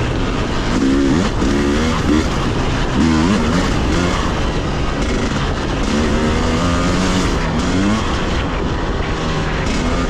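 Dirt bike engine revving up and down over and over, its pitch climbing and dropping every second or so as the throttle is worked on the trail.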